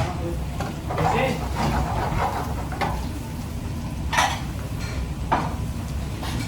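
Kitchen work sounds: pans and utensils clattering and stirring over a steady low rumble, with two sharp knocks about four and five seconds in.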